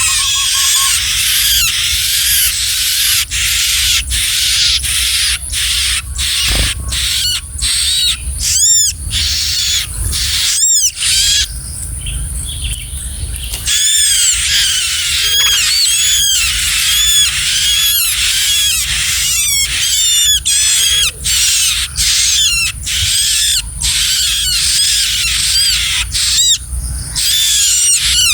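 Bar-winged prinia (ciblek) giving rapid, high-pitched chirping calls, many short arched notes in quick succession, over a low steady rumble.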